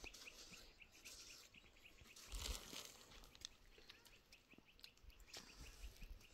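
Faint small bird chirping in a quick, even series of short high chirps, about five a second, with a few soft rustles in between.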